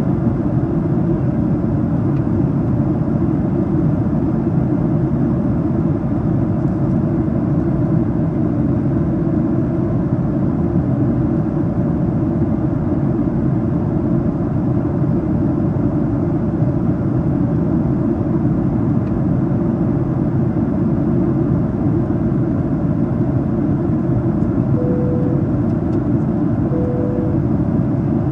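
Steady cabin roar of a Boeing 737-800 at cruise: its CFM56 turbofan engines and the airflow over the fuselage heard from a main-cabin seat. Near the end, two short soft tones about two seconds apart.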